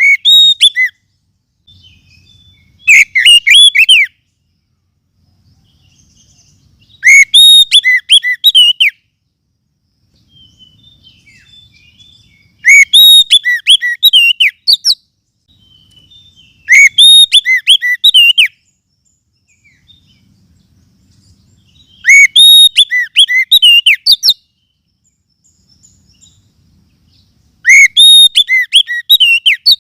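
Oriental magpie-robin (kacer) song, a recorded lure call: loud phrases of varied whistled notes, each one to two seconds long, repeated about every four to five seconds.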